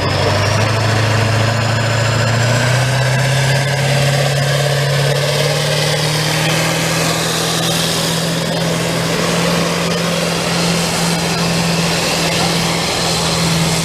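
Pickup truck engine working hard under load while pulling a truck-pull sled. Its pitch climbs steadily over the first six or seven seconds, then holds.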